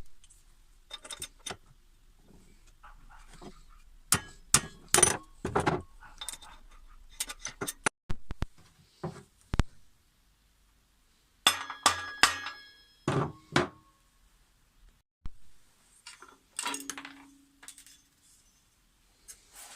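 Hand tools and small metal parts clinking and knocking in irregular groups, a few of them ringing briefly.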